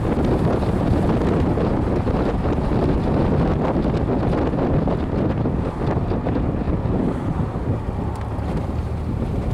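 Triumph TR6 cruising at about 50 mph in fifth gear: heavy wind rush on the microphone over the steady running of the engine and the road noise.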